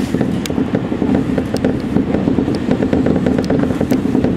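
Electric commuter train running along the line, heard from just behind the driver's cab: a steady rumble of wheels on rail with many quick, irregular clicks and rattles as the wheels pass over rail joints and points.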